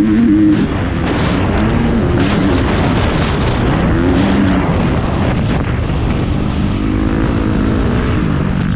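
Motocross bike engine running hard, its pitch rising and falling with the throttle, over a dense rush of noise.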